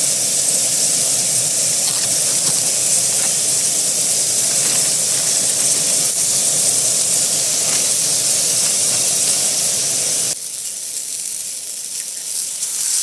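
Diced potatoes and green peppers sizzling loudly in hot oil in a frying pan. The hiss drops abruptly about ten seconds in, then swells again briefly near the end.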